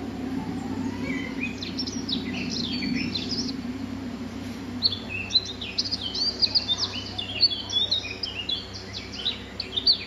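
Small songbirds chirping and twittering: a few quick high chirps in the first seconds, then a dense run of rapid chirps from about halfway through, over a low steady background hum.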